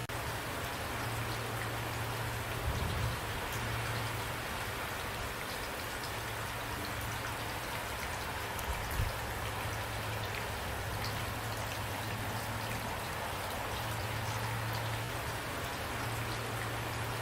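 Steady rain falling, an even hiss of drops with a low rumble underneath. Two brief low thumps come about three and nine seconds in.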